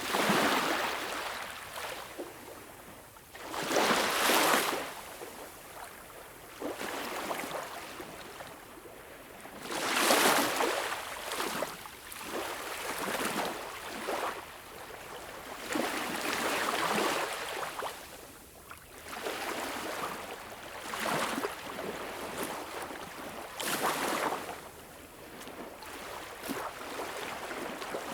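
Small, calm sea waves washing up onto a beach: a hissing wash that swells and fades every few seconds, some surges stronger than others.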